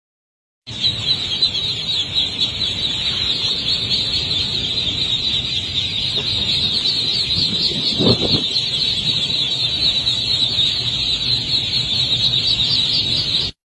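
Birds chirping continuously in a dense, high-pitched chorus, with a brief low sound about eight seconds in.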